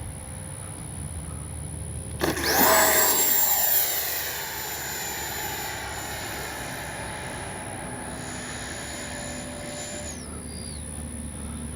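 80 mm 12-blade electric ducted fan of an FMS Futura V3 RC jet making a fast pass: a sudden rush of air and a high fan whine about two seconds in, loudest for a couple of seconds. The whine then holds steady and drops in pitch near the end.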